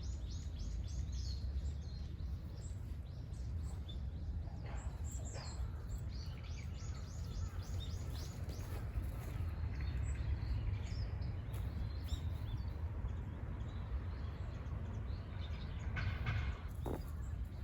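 Small wild birds singing in runs of quick, high, repeated chirps, over a steady low background rumble.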